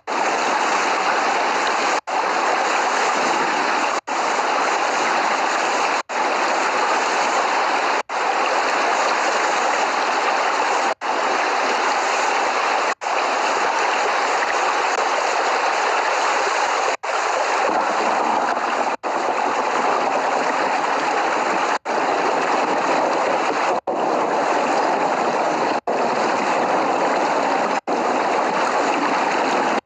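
Steady rain, an even hiss with no thunder, broken by very short gaps about every two seconds where the recording drops out.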